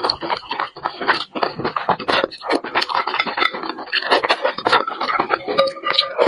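Close-miked eating sounds of spicy braised fish: rapid wet chewing and lip-smacking with many small mouth clicks, and chopsticks put to the lips and sucked.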